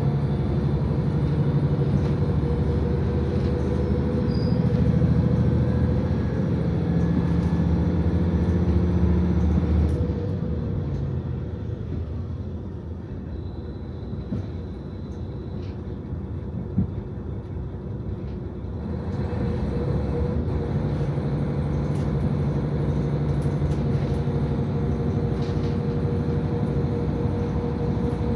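KiHa 40 diesel railcar under way, heard from inside the car: the diesel engine drones under power, then eases off about ten seconds in. The railcar coasts for several seconds on a quieter running rumble, and the engine pulls again a little past halfway.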